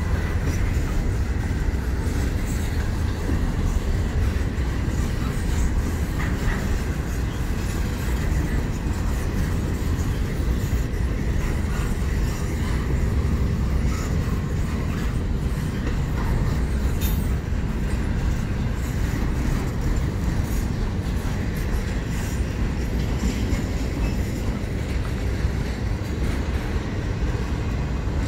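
Freight train rolling past, its cars making a steady, unbroken rumble with faint scattered clicks from the wheels.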